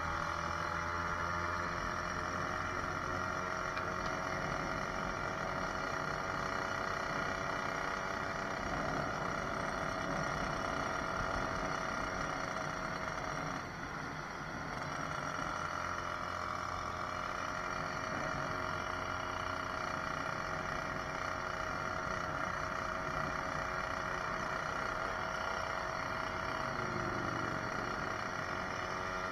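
A 66cc two-stroke motorized bicycle engine running at a steady cruising speed during a ride. The engine note dips briefly about halfway through, then picks up again, with low wind rumble underneath.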